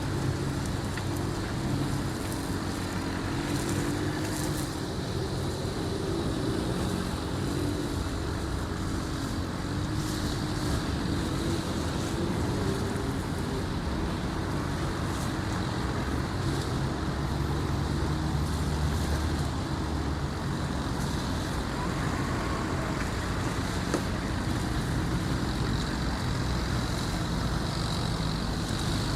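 Steady engine rumble of heavy motors running without a break, with a continuous haze of outdoor noise and a single sharp tick near the end.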